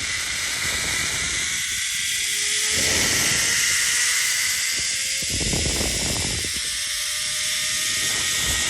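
Zipline trolley pulleys running along the steel cable: a steady hiss with a faint whine that rises slowly, and wind gusting on the microphone a few times.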